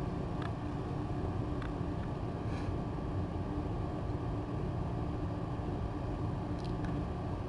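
Steady low hum of room noise, with a few faint light clicks.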